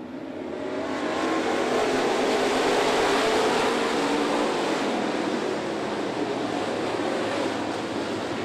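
Dirt late model race cars' V8 engines running hard as the field goes by, growing louder over the first two seconds, then easing off a little.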